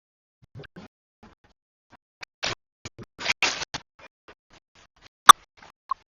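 Kitchen handling noises: scattered light clicks and knocks, two short scraping or rustling bursts near the middle, and one sharp click, the loudest sound, about five seconds in.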